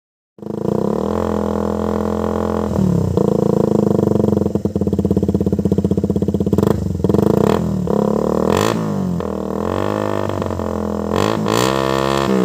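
Motorcycle with an SRM aftermarket racing exhaust running at idle, starting about half a second in, with a few throttle blips that raise and drop the pitch.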